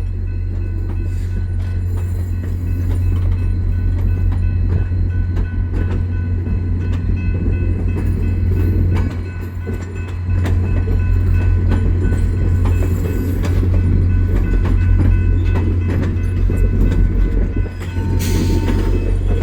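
VIA Rail passenger train rolling slowly into the station, its diesel locomotive running with a steady low drone and the wheels clicking over the rail joints. Near the end a high steady tone sets in.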